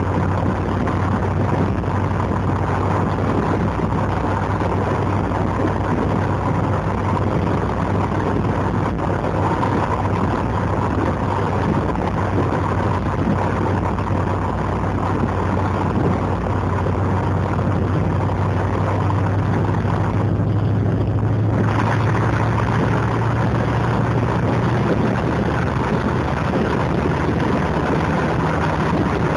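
TVR Wedge's Rover V8 engine burbling steadily as the car cruises, heard from inside the cabin over road and wind noise. The hiss above the engine note briefly drops away about two-thirds of the way through.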